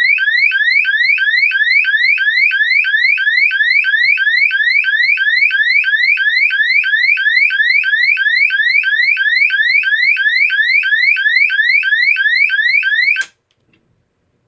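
GE AS363 electronic sounder playing its vandal alarm tone: a loud sweep rising from 1500 Hz to 2700 Hz, repeated three times a second. It cuts off suddenly about 13 seconds in.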